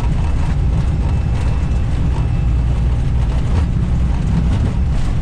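Airbus airliner cockpit during takeoff: a steady, loud low rumble of the engines at takeoff thrust heard through the flight deck.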